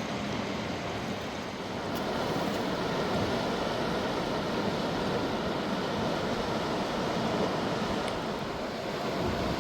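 Rushing mountain river water, a steady noise that grows a little louder about two seconds in.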